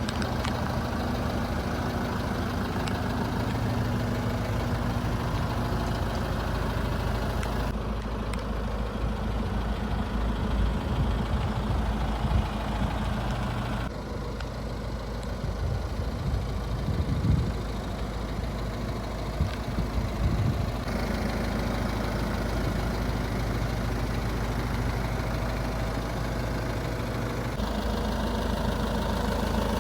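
DAF LF 180 lorry's 4.5-litre diesel engine idling steadily. The sound shifts abruptly a few times, with a few brief knocks in between.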